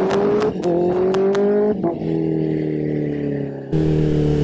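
Sport motorcycle engine pulling up through the gears. Its pitch climbs, drops at a shift about half a second in, climbs again and drops at a second shift a little under two seconds in, then holds steady and eases off slightly. A deeper rumble joins near the end.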